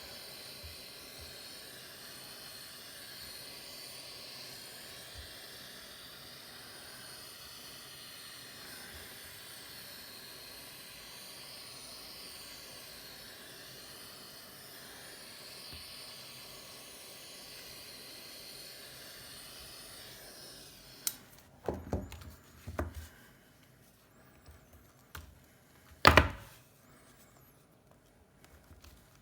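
Hot-air gun blowing steadily to soften the display adhesive, cutting off suddenly about 21 seconds in. After it, a handful of sharp clicks and knocks of tools and parts being handled, one a few seconds later much louder than the rest.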